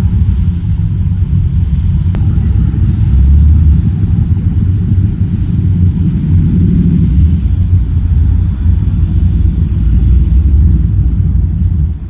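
Low, steady engine rumble of classic American cars driving in to the show.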